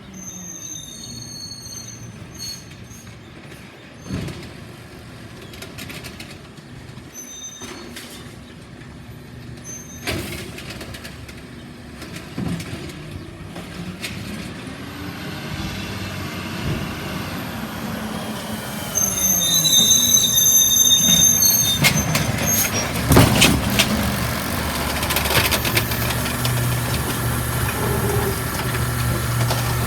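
Recycling truck running, with a rise and fall in engine pitch about halfway through, then growing louder about two-thirds of the way in with high squeals and several sharp knocks.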